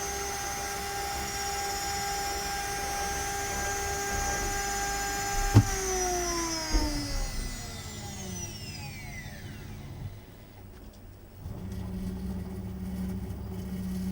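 CNC router spindle running with a steady high-pitched whine, then switched off with a sharp click about five and a half seconds in, its pitch falling over the next four seconds as it spins down. A lower, steady hum starts near the end.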